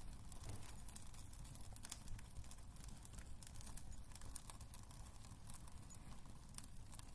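Wood fire burning in a fireplace: a steady low rumble of flame with irregular small crackles and pops from the burning logs.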